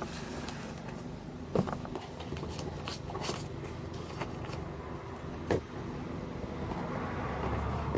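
Cardboard camera box and packaging being handled, a few soft knocks and rustles over a steady low hum that grows louder near the end.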